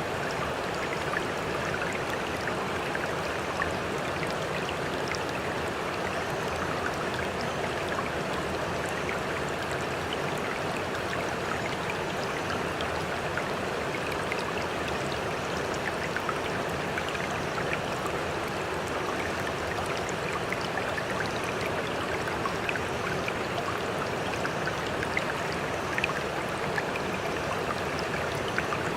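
Sea water rushing and splashing steadily, with many small fizzing pops throughout.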